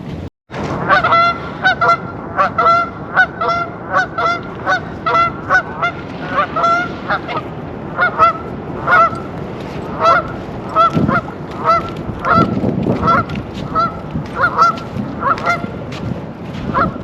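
A flock of geese honking over and over, about two calls a second, over a steady low rushing noise.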